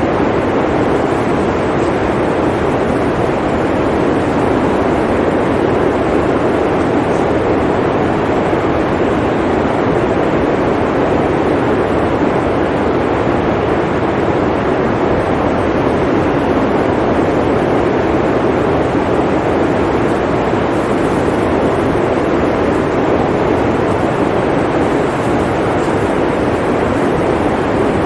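Blizzard wind blowing, a loud steady rushing that swells and eases slowly.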